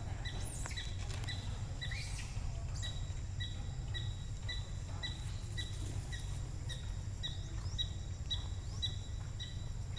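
A bird chirping over and over in short, even notes, about two a second, over a steady low rumble.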